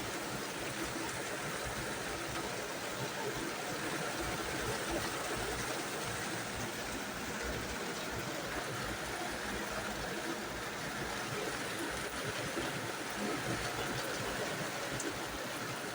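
Steady rain falling, a continuous even hiss without a break.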